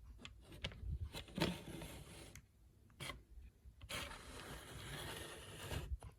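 Scraping, with a few sharp clicks, as of a small hard object being handled or slid across a surface; two longer scrapes about a second in and about four seconds in.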